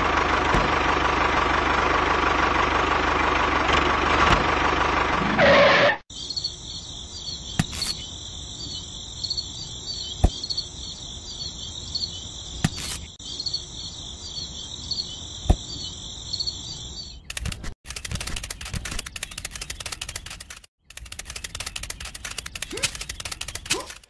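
A steady engine sound for about the first six seconds, cutting off abruptly. Then crickets chirp in a high, steady, pulsing trill with a few sharp clicks, and near the end come a run of small clicks and taps.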